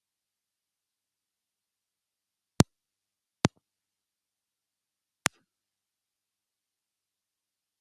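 Three short, sharp clicks in otherwise total silence: two less than a second apart, the third about two seconds later.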